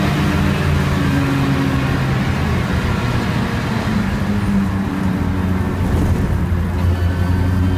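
BMW E36 328i race car's straight-six engine and road noise heard from inside the cabin. The engine note drops as the car slows hard from about 95 mph to under 60 mph for a corner, then runs steadily.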